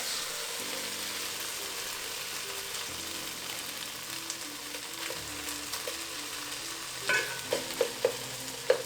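Beef sizzling in a cooking pot, a steady hiss. From about seven seconds in, a spoon knocks and scrapes against the pot a few times a second as the meat is stirred.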